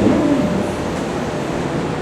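Electric commuter train running at a station platform, a steady rumble.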